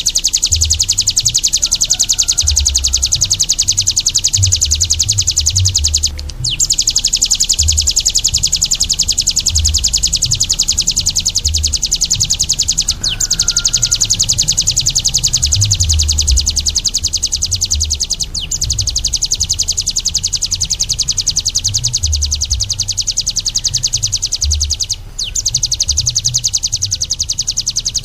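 A songbird singing one long, very fast, high-pitched trill, broken by short pauses about every six or seven seconds. Low irregular thuds run underneath.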